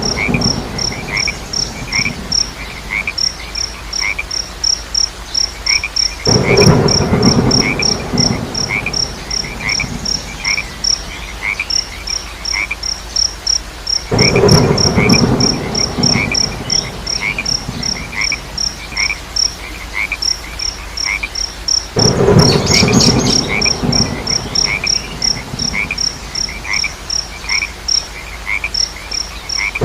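Frogs croaking in loud bouts of about two seconds that come roughly every eight seconds, over steady insect chirping: a fast high pulsing trill and a slower, lower repeated chirp.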